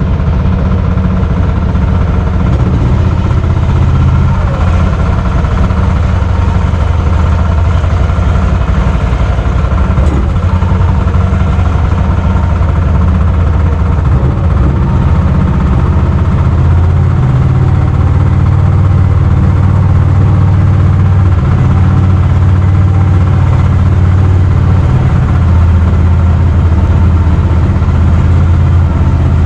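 Small gas engine of a Mokai motorized kayak running steadily as its water jet drives the boat under way, with a steady low drone.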